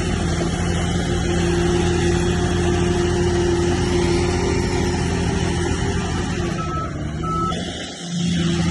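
Heavy earthmoving machine's diesel engine running steadily at a constant pitch, with two short high beeps near the end. The sound dips for a moment just before it ends.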